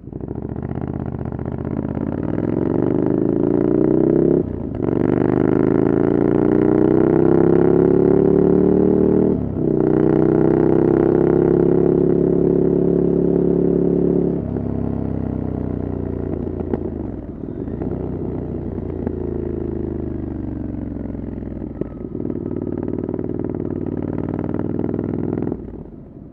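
Ducati Desert Sled's air-cooled V-twin through a LeoVince exhaust with the dB killer removed, accelerating hard with a climbing pitch broken by two quick gear shifts about 4.5 and 9.5 seconds in. About 14 seconds in the throttle eases and the note falls away. It then runs at lower revs until the throttle closes near the end.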